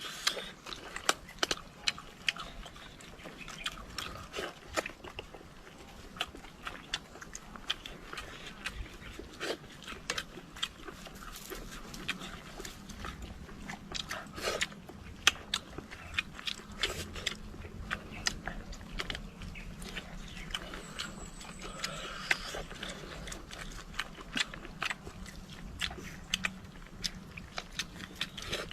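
People eating: biting and chewing food, with many short, sharp crunches and mouth smacks at an uneven pace.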